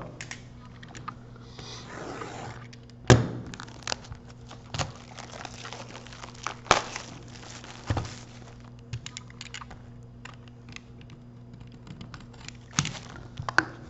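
Hockey card box and foil pack wrappers being handled and torn open: crinkling and tearing with scattered knocks and clicks, the loudest about three seconds in. A steady low hum runs underneath.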